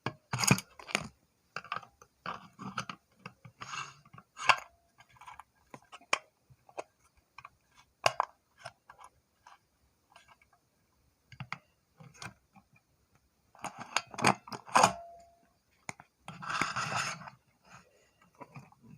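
Plastic bird toothpick dispenser being handled and worked: irregular small clicks, taps and rattles, with a louder cluster of clicks about 14 seconds in and a short rustling stretch about 17 seconds in.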